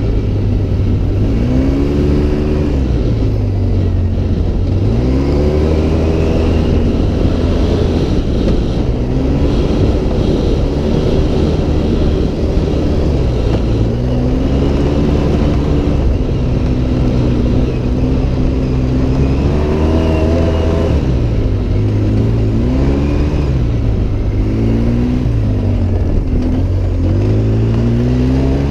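Vehicle engine driven hard off-road, its pitch climbing and dropping again every few seconds as it revs and eases off, over a steady low rumble.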